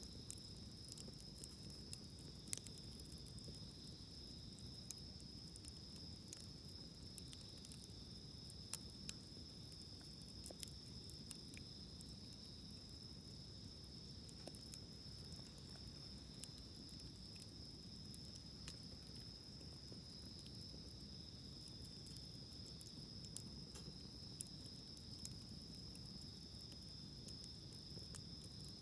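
Wood campfire crackling with scattered sharp pops, the loudest about two and a half seconds and nine seconds in, over a steady high chorus of insects singing.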